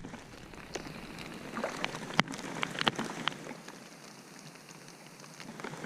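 Faint hiss of wind and water with scattered light knocks and ticks from a canoe and fishing tackle, while a hooked fish is played.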